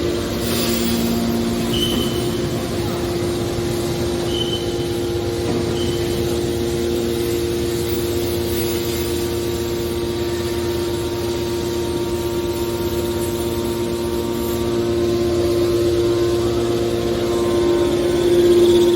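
A hydraulic can baler's motor and pump running with a steady hum, a little louder in the last few seconds. Three brief high squeaks come in the first six seconds.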